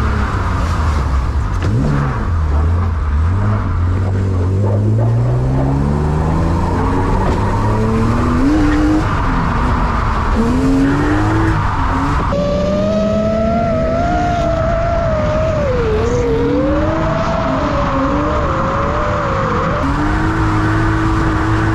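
Performance car engines accelerating hard, the pitch climbing and dropping back at each gear change. After a cut about halfway in, drift cars slide with engines revving up and down and tyres squealing.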